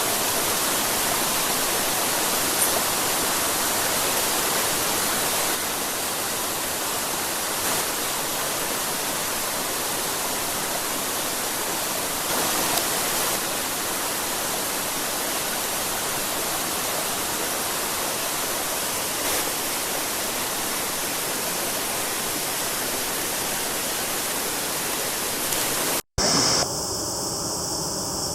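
Steady rush of water from a mountain stream or waterfall. About 26 seconds in it cuts out for an instant and comes back changed, with a few faint steady tones under the water.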